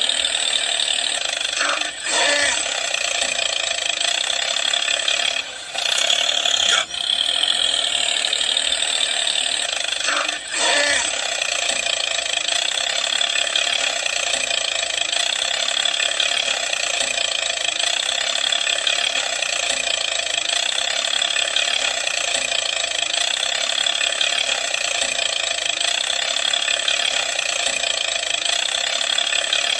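Small electric motor and gear train of a DIY model tractor running with a steady whine, dipping briefly a few times in the first eleven seconds.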